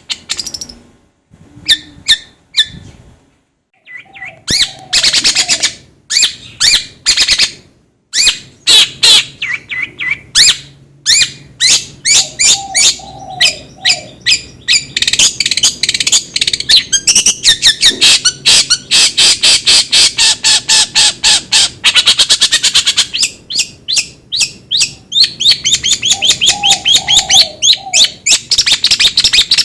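Long-tailed shrike (cendet) giving runs of harsh, scratchy chattering calls, sparse at first, then speeding into a fast, near-continuous rattle in the second half. A lower warbling note comes in now and then.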